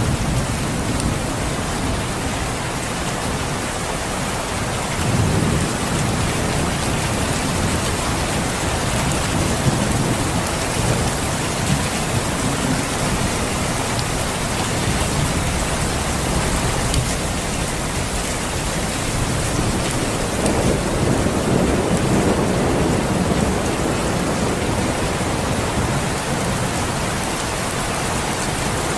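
Steady rain falling, with low rolls of thunder: one about five seconds in and a longer one around twenty seconds in.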